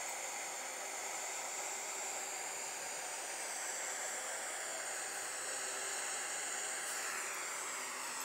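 Steady hiss of background noise, with faint high-pitched tones running through it and no distinct event.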